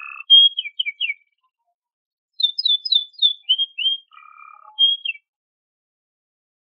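Domestic canary singing: two short phrases of quick, sharply falling whistled notes, each with a brief buzzy note. The song stops a little over five seconds in.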